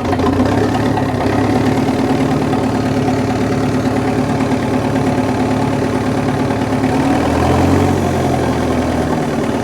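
Bulldozer's diesel engine idling steadily, briefly a little louder near the end, running with a freshly installed replacement alternator while the charging voltage is checked.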